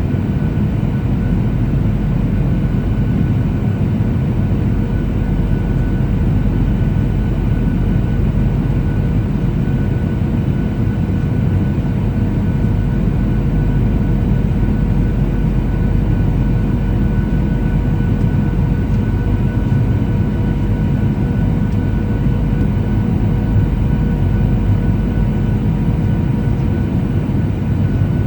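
Steady cabin noise inside a Boeing 737-800 in flight: a deep, even rumble of airflow and its CFM56-7B jet engines, with faint steady whining tones above it.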